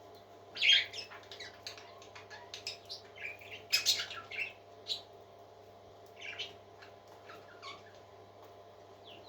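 Parrot chick chirping and squawking in a quick run of short, high calls, loudest about a second in and again near four seconds in, thinning out toward the end.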